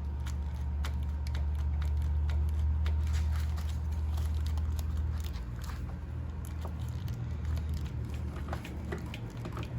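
Small clicks, knocks and rustles of hand-working a Dell'Orto carburetor loose and sliding it off its intake rubber, over a low steady hum that weakens about five seconds in.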